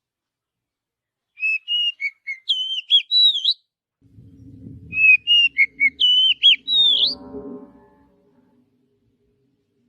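Oriental magpie-robin (kacer) singing: two quick phrases of clear whistled notes that slide up and down, each about two seconds long. A low hum sits underneath the second phrase.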